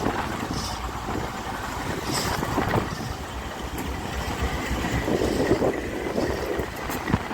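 Freight train rolling past, with wheels knocking irregularly over the track.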